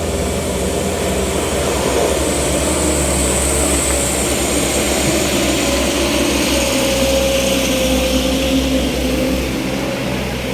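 A motor vehicle engine running steadily under load, with a low pulsing hum and a faint hiss over it.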